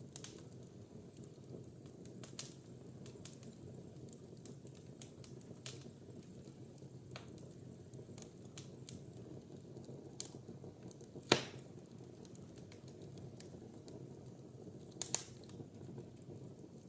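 Wood fire burning in a fireplace: a steady low rush of flames with irregular crackles and pops of burning logs, the loudest pop about eleven seconds in and a quick double pop about fifteen seconds in.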